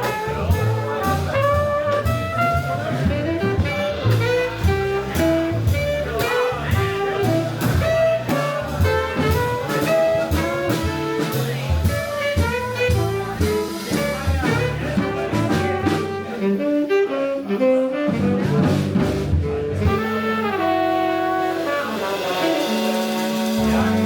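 Live jazz band playing: a horn line over double bass and drums, with regular cymbal strokes. About twenty seconds in the band moves from busy running lines to long held notes, like a closing chord.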